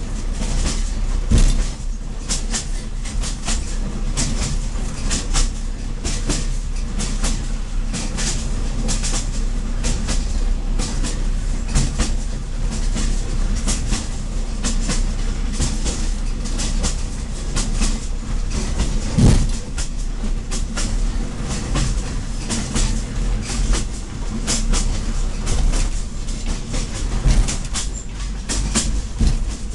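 Maeklong line diesel railcar running along the track: a steady low engine and running drone with the wheels clicking and clattering over the rail joints, and one heavier thump about 19 seconds in.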